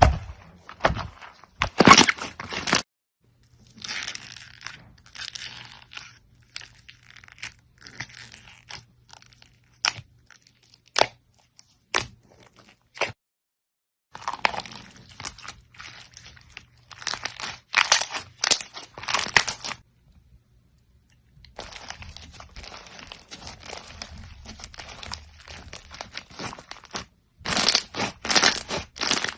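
Crunchy slime being handled, giving dense runs of crackling, popping crunches broken by a few short silences.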